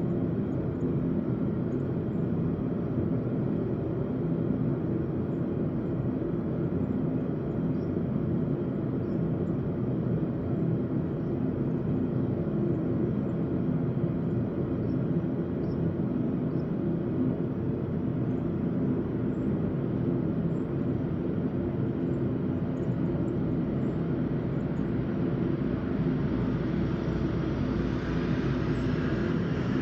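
Blacksmith's forge running steadily, with a higher hiss building near the end.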